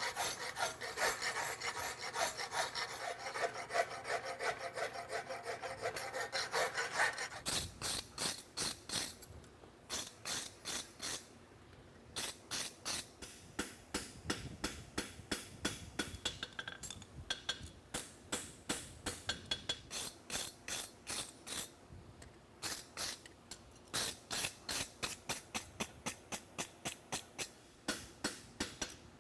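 Farrier's rasp scraping across the inner edge of a steel horseshoe, cutting decorative lines, for about the first seven seconds. Then a long run of short, sharp ticks follows, a few a second with brief pauses.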